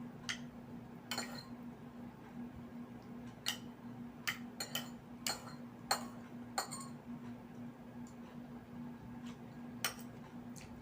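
Tableware clinking during a meal: about nine or ten short, sharp clinks at uneven intervals, over a steady low hum.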